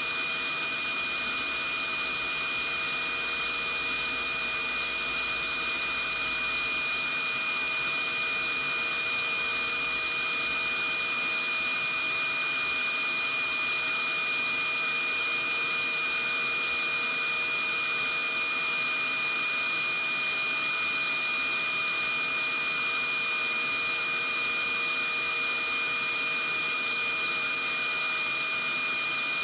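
Vacuum cleaner running steadily: a constant rushing motor noise with a high whine held on one pitch.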